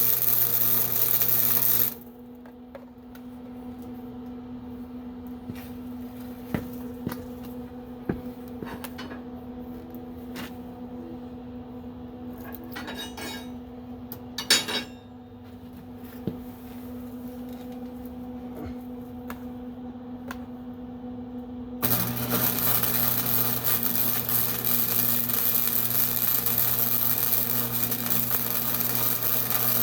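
Metal-shop work: a loud, steady, hissing tool noise stops about two seconds in and starts again about 22 seconds in. In between, metal parts clink and knock over a steady hum.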